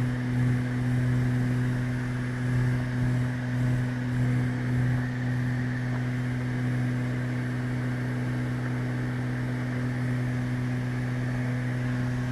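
Cabin drone of a Beechcraft Baron G58's twin six-cylinder piston engines and propellers in the climb. It throbs slowly for the first five seconds or so, as the two propellers beat against each other, then settles into a steady drone.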